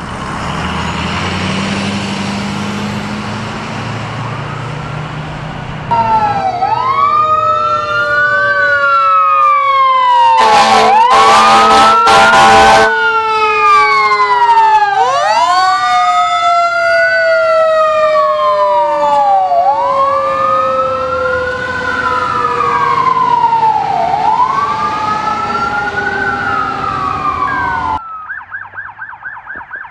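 Emergency vehicle sirens wailing, rising and falling in slow sweeps, with a second siren tone gliding slowly downward, over a vehicle engine's rumble. Loud blasts, the loudest part, come about ten to thirteen seconds in. Near the end the sound switches abruptly to a fast yelping siren.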